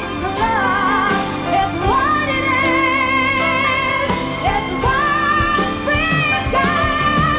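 A female soprano singing a slow ballad over instrumental accompaniment, holding long notes with wide vibrato and sliding up between pitches.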